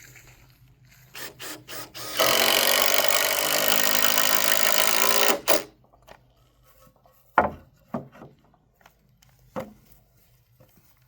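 Power drill driving a screw into a wooden frame: a few quick trigger blips, then about three seconds of steady running and two short bursts. Three sharp knocks follow later.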